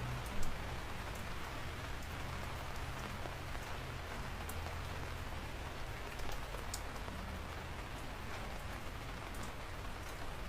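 Steady rain falling, with single drops ticking sharply now and then over a low steady rumble. One louder drop hits about half a second in.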